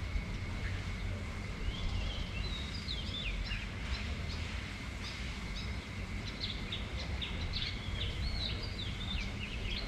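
Steady noise of wind and rain, with a low rumble of wind buffeting the microphone. From about a second and a half in, a bird calls in many quick, short chirps, over a faint steady high tone.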